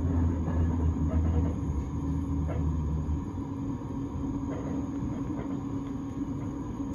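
Low, steady hum and rumble of an S-Bahn train standing at an underground platform. The deepest drone drops away about three seconds in, while a steadier, higher hum carries on.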